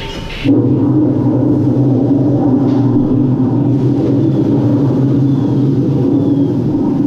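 A loud, steady, low machine hum with two constant low tones, starting abruptly about half a second in.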